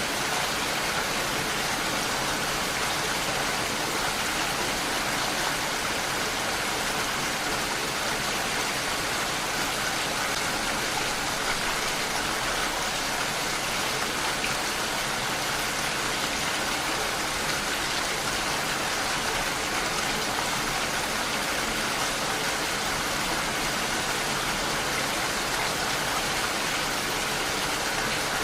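Steady, even rain with a dense patter of drops on surfaces, without a break or change.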